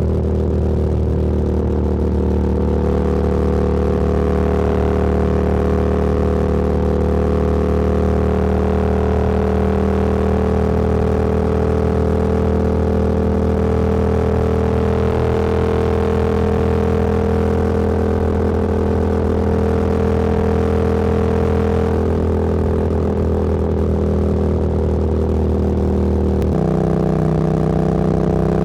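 Motorcycle engine running at a steady cruise, with rushing noise over it. About two seconds before the end, the engine note drops abruptly to a lower pitch, as with an upshift.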